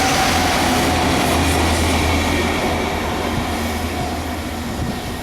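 A train running past on the track: a steady rail rumble with a low hum underneath and faint high whining tones, easing off slightly near the end.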